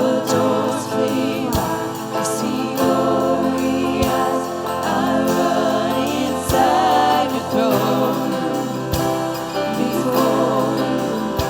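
Worship music with voices singing over sustained instrument chords and a low drum beat about every two and a half seconds.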